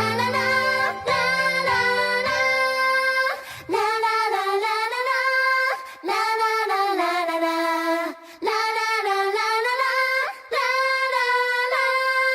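Female voices singing an upbeat J-pop song. The low band backing drops out after about three seconds, leaving the sung phrases with short pauses between them.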